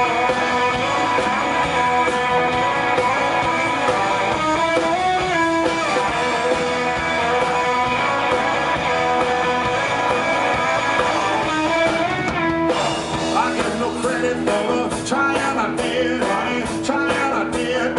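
Live rock and roll band playing an instrumental stretch of a song with no vocals, guitar to the fore over a steady band. About thirteen seconds in, the playing gets brighter and busier, with sharper hits.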